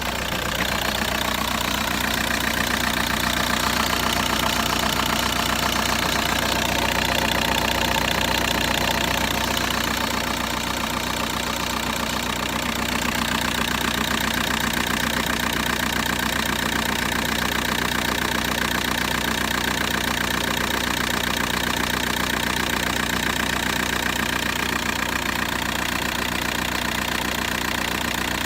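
VW Bora's 1.9 TDI ARL four-cylinder turbodiesel idling with an even, rapid knock, a little louder for several seconds near the start. The engine is shaking and making a strange sound that the owner is trying to pin down.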